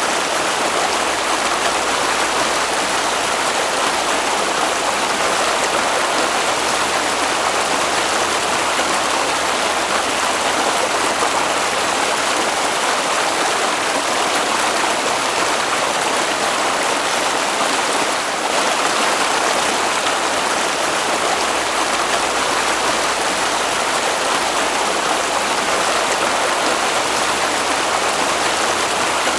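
Water flowing steadily, an even continuous rushing.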